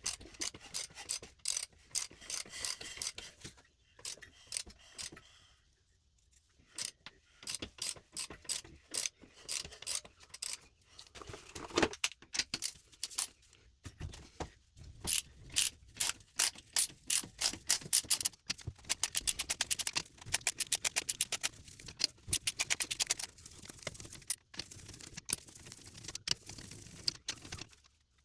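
Ratchet wrench clicking in runs of quick clicks as it works on the engine, between scattered metallic tool clicks and clinks.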